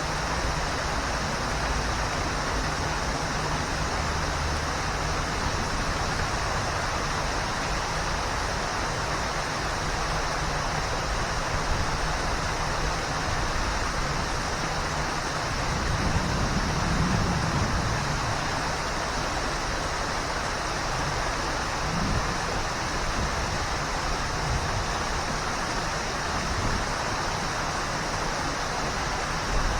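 Waterfall: a steady, dense rush of falling water. A low rumble swells briefly about halfway through.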